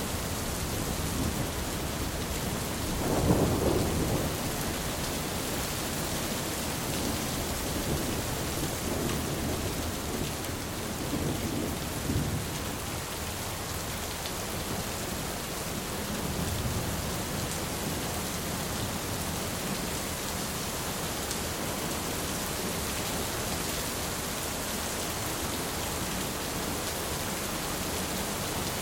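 Steady heavy rain hissing throughout, with a roll of thunder swelling about three seconds in and fainter distant rumbles of thunder later on.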